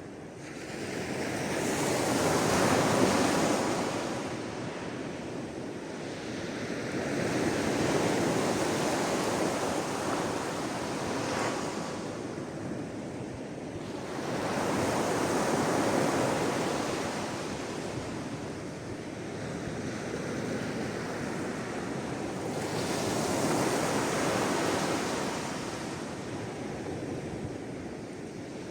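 Sea waves washing in, a steady rush of surf that swells and fades in slow surges about every five to eight seconds.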